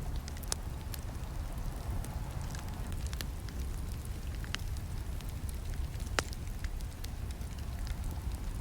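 Campfire burning: a steady low rumble of flames with scattered sharp crackles and snaps of burning wood, one louder snap about six seconds in.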